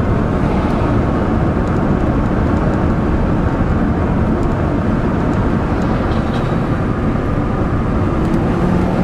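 Steady vehicle rumble: engine running and road or traffic noise, even throughout with no revving or sudden events.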